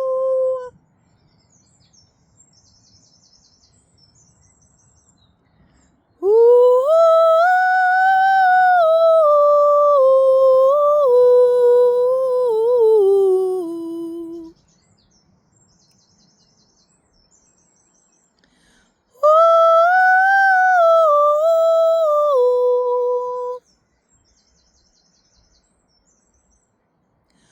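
Woman's wordless vocal toning: long sustained tones that slide slowly up and down in pitch, in two phrases of several seconds each with pauses between. Faint bird chirps are heard in the pauses.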